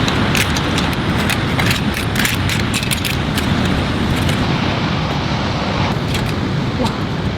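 Heavy rain and wind: a steady loud roar with many sharp taps of drops striking, thinning out after about four seconds.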